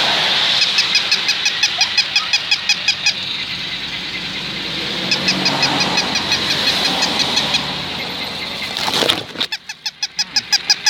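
Battery-operated walking toy dog running: two runs of fast, even clicks or yaps, about five a second, each lasting a couple of seconds, over a steady hiss.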